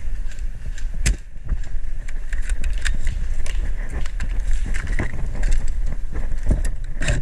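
Movement noise on a body-worn camera: irregular clicks and knocks from gear and footsteps over a steady low rumble.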